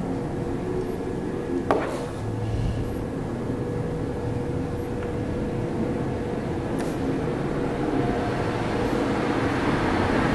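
Steady machine hum, with a sharp click about two seconds in and another about seven seconds in.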